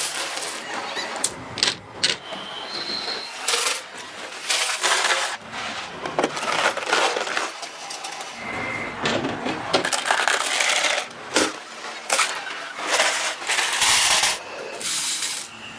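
Mild steel parts clinking and clattering against metal, with irregular knocks and a few short metallic rings.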